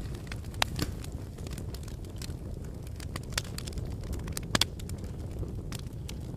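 Wood fire burning in a fireplace: a steady low rumble of the flames with irregular crackles and sharp pops, the loudest pops about half a second in and again near 4.6 seconds.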